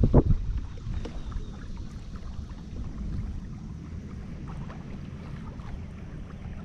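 A kayak moving on a river: steady low wind rumble on the microphone with water moving along the hull and faint small knocks. There is a short louder burst at the very start.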